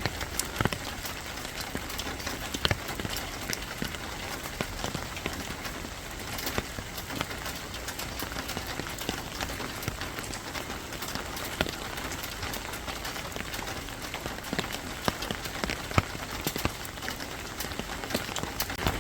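Steady rain falling, with many separate drops striking a hard surface as sharp, irregular clicks over a continuous hiss.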